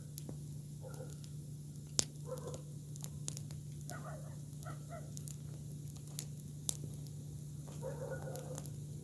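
Campfire of freshly cut Cudrania branches crackling with scattered sharp pops, the loudest about two seconds in. Chickens cluck in short bursts now and then, over a steady low hum.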